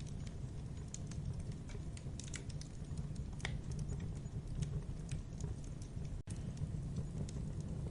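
Wood fire crackling in a fireplace: irregular sharp pops and snaps over a steady low rumble of the flames, with a momentary dropout a little after six seconds.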